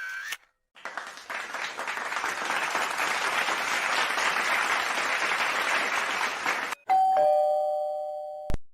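A crowd applauding for about six seconds, then a two-note ding-dong doorbell chime, the second note lower, fading until it is cut off with a click near the end.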